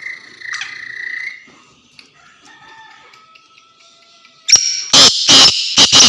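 Black francolin calling: after faint whistled notes, a very loud, harsh run of four or five short grating notes starts about four and a half seconds in.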